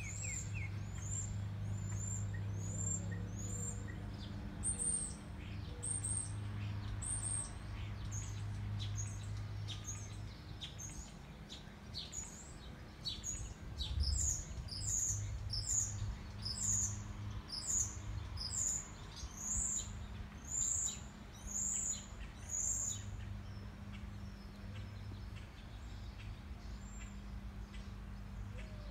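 A small bird giving a long run of short, high chirps, one to two a second, coming quicker in the middle and stopping well before the end, over a steady low hum.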